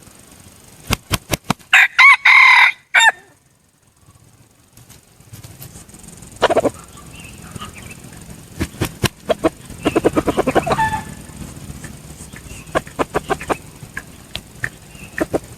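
Red junglefowl decoy rooster crowing once, a short crow about two seconds in, followed by runs of short clucks and sharp clicks.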